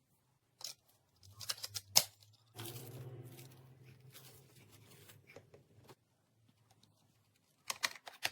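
Handling noise of a plastic stick vacuum after it is switched off: scattered sharp clicks and rattles of hard plastic parts, the loudest about two seconds in, with a faint low hum through the middle and another cluster of clicks near the end.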